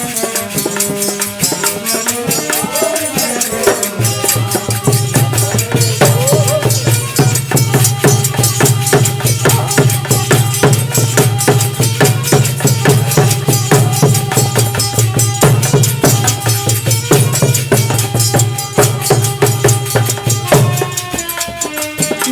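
Instrumental interlude of a dehati devotional bhajan: a fast, driving beat of drum and rattling, jingling percussion under a melody line. A steady low drone comes in about four seconds in and drops out near the end.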